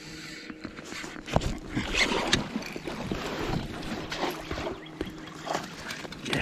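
Irregular knocks and clatter on a fishing kayak, gear being handled in the boat.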